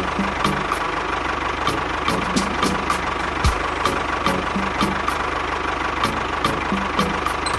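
An engine or motor running steadily at idle, with a regular clicking of about three clicks a second over a continuous hum.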